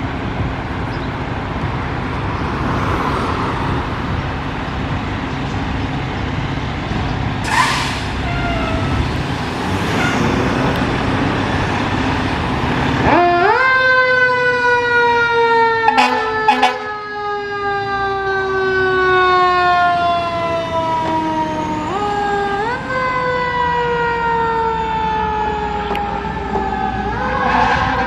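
Fire truck siren winding up quickly and then slowly falling in pitch, starting about halfway in and wound up twice more near the end. Before it starts there is only heavy truck engine and road rumble.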